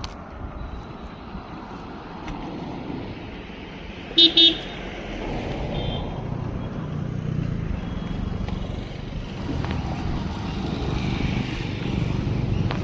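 Road traffic: a vehicle horn sounds two short honks about four seconds in, then a vehicle engine grows louder as it approaches.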